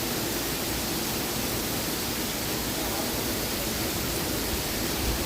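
Heavy thunderstorm rain pouring down in a steady, unbroken hiss.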